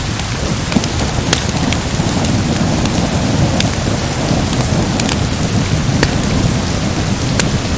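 Steady heavy rain with a continuous low rumble of thunder, over scattered sharp crackles from a wood fire.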